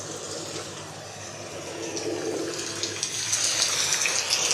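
Fake rain sound effect: a steady noise of pouring water standing in for a heavy downpour, growing louder about two seconds in.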